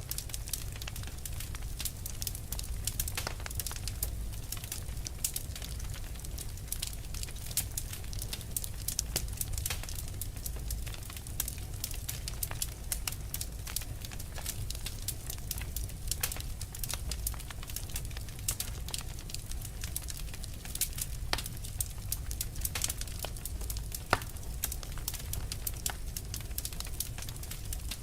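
Wood fire burning: dense, irregular crackles and pops over a steady low rumble of the flames.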